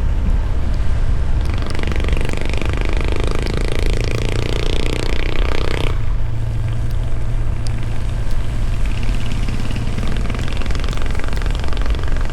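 A motorcycle running while ridden, with heavy wind rumble on the camera microphone. A brighter rushing layer is added from about a second and a half in and cuts off suddenly about six seconds in.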